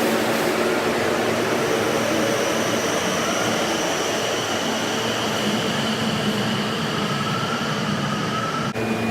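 Train running, heard as a steady rumbling noise with faint whining tones that rise slowly, sped up to double speed. Near the end it cuts off abruptly to a different steady sound with a few held tones.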